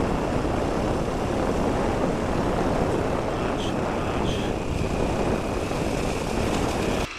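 Heavy wind noise on an unprotected stereo microphone inside a motorcycle helmet at riding speed: a loud, dense rushing that swamps everything else. It cuts off abruptly near the end.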